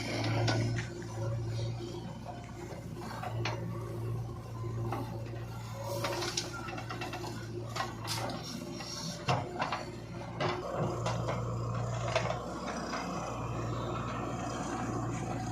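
Diesel engine of a JCB 3DX backhoe loader running steadily under work, with several sharp metallic clanks and knocks in the middle.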